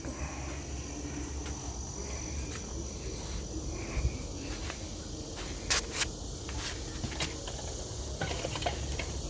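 Steady background hiss and low rumble, with a few sharp clicks about four, six and seven seconds in.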